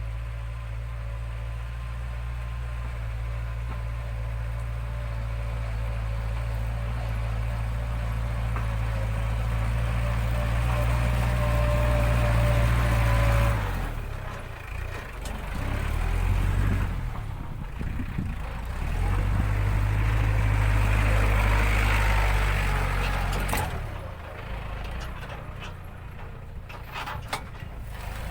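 ISEKI NT554 diesel tractor engine running under load while ploughing rough, rutted paddy ground. Its steady note grows louder for about thirteen seconds, then drops and rises again several times as the load and throttle change, with a few sharp clicks near the end.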